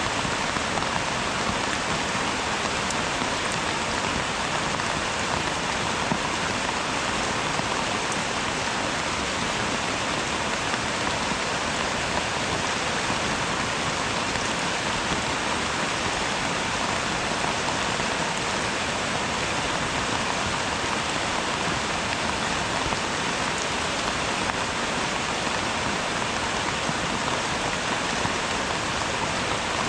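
Rain falling steadily, an even, unbroken hiss with no pauses or changes.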